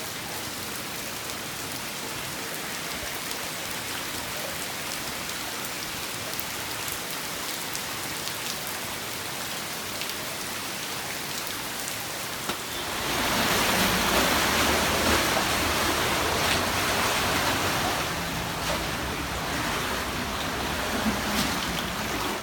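Steady rain falling, with scattered drops ticking close by; about thirteen seconds in the rain grows louder.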